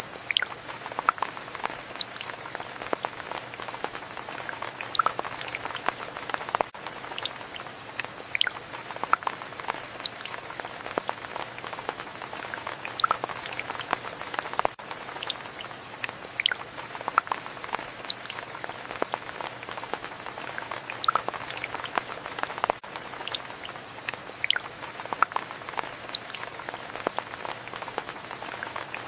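Steady rain with many distinct drops landing close by, heard as scattered sharp ticks over a soft even hiss. The recording loops about every eight seconds.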